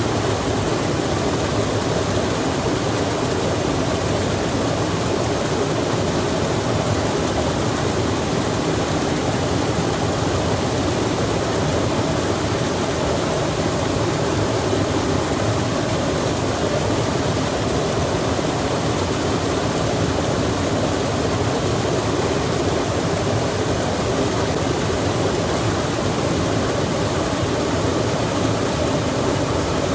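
Steady, unbroken rushing of running water, even in level throughout, with no birds or other distinct sounds standing out.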